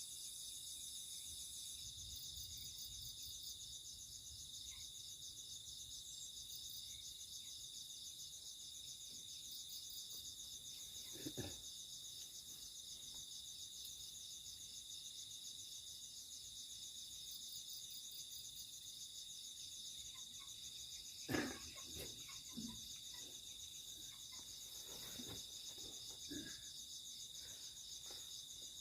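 A steady chorus of night insects (crickets) trilling high-pitched, with a few short knocks, the loudest just over 20 seconds in.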